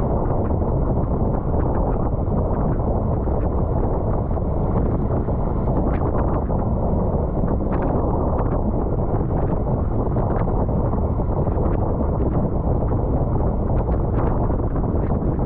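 Steady wind buffeting the microphone of a camera on a racing bicycle at speed, with scattered faint clicks.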